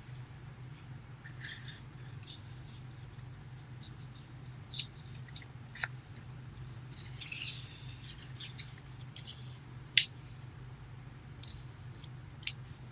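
A sheet of origami paper being handled and folded: soft crinkles and light taps, a longer rustle about seven seconds in, and a sharp tap about ten seconds in.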